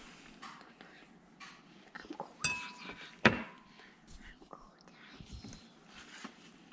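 Small hard objects clinking and knocking while lure-making gear is handled, with two louder clinks a little under a second apart about two and a half seconds in, each ringing briefly.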